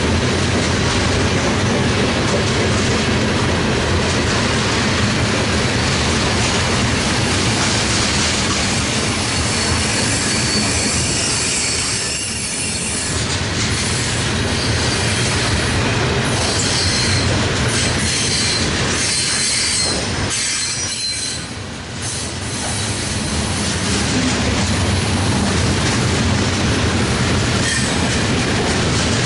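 A train rolling past close by, its steel wheels rumbling and clacking on the rails. High-pitched wheel squeal comes through in the middle stretch.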